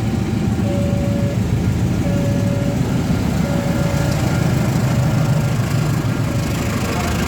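Train departing a station: a steady, loud low rumble of the train's diesel engine, with a repeating beep about every second and a half that fades out midway.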